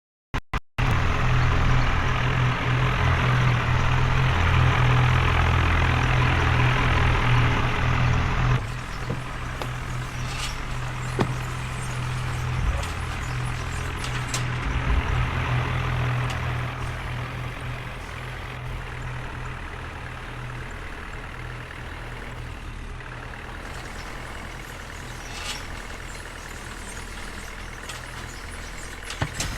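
Diesel tractor engine running steadily, loud for the first eight seconds or so and then noticeably quieter.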